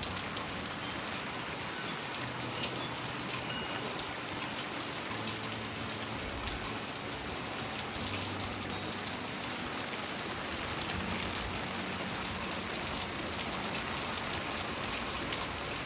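Heavy monsoon rain falling steadily: a dense, even hiss flecked with the ticks of individual drops landing.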